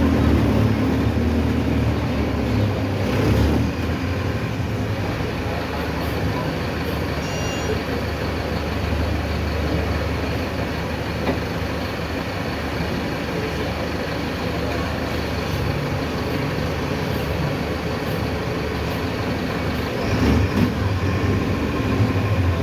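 Mercedes-Benz OF-1519 city bus's front-mounted diesel engine running steadily while the bus drives, over road noise. There are a few brief knocks about three seconds in and again near the end.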